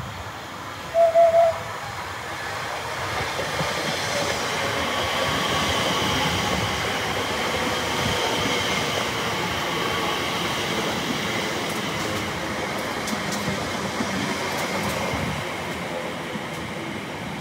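Class 345 electric train running past at the platform: a steady electric whine over rail and wheel noise, building up over the first few seconds and then holding. A brief, loud, single-pitched beep about a second in.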